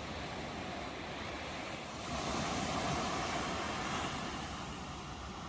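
Ocean waves washing on the shore in a steady rushing noise, with one wave swelling louder about two seconds in and then easing back.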